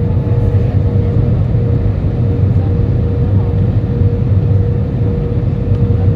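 Airbus A320 cabin noise in flight, heard from a seat over the wing: a steady rush of the engines and airflow with a low drone and a constant thin hum running through it.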